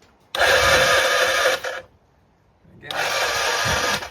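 Suzuki GS250T's electric starter motor cranking the engine in two bursts of about a second and a half each, stopping abruptly each time without the engine catching.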